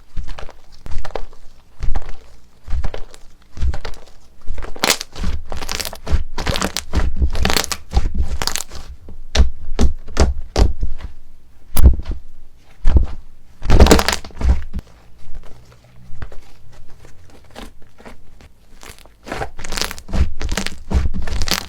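Slime being squeezed and pressed by hand, giving a long run of short, irregular clicks and pops in clusters, some with a low thud underneath.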